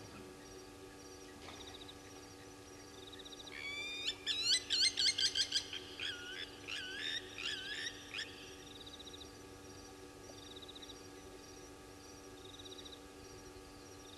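A bird calling at night: a run of rapid, rising whistled notes that starts about three and a half seconds in and lasts about five seconds, the later notes lower. Short faint trills come back every second or two, over a steady low hum.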